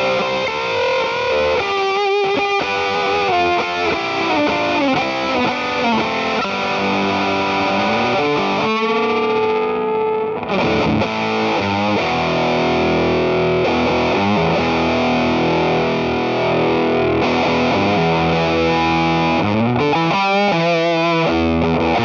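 Electric guitar played through an EarthQuaker Devices Sound Shank germanium fuzz pedal, giving a thick distorted tone: riffs and held notes, with a rising string bend about nine seconds in.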